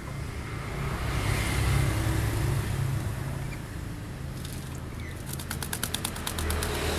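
A pet parrot flapping its wings in a quick run of about a dozen rapid beats, about five seconds in, over a steady low rumble.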